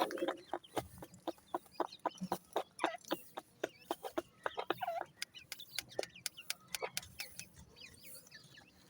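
Young francolin chicks cheeping, many short sharp calls several a second with a few longer peeps, growing sparser near the end.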